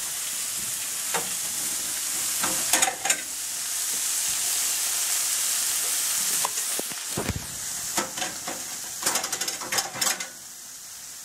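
Sliced green peppers and onions sizzling as they sauté in a skillet, a steady high hiss that drops away near the end. A few short clicks and knocks are scattered through it.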